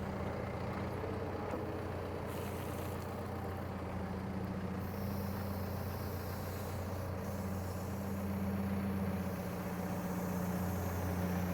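Diesel engine of a 2014 John Deere 310SK loader backhoe running steadily, picking up slightly about eight seconds in.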